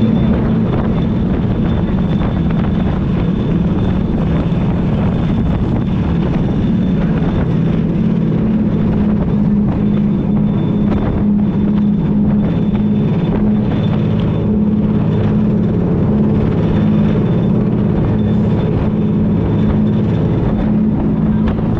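Jet boat engine running steadily, a loud low drone that holds one pitch throughout.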